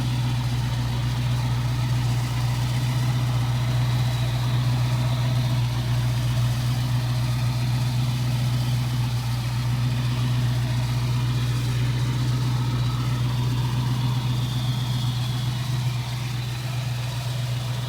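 1967 Ford Mustang GT Fastback's V8 engine idling steadily with a low, even hum, still warming up after a cold start.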